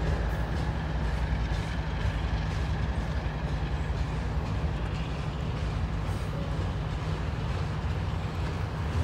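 Union Pacific mid-train DPU diesel locomotive passing within a double-stack intermodal freight train: a steady, deep rumble of the locomotive's diesel engine mixed with the rolling noise of the cars.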